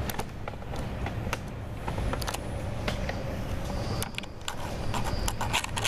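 Moving passenger train heard from inside the carriage: a steady low rumble with many scattered clicks and knocks.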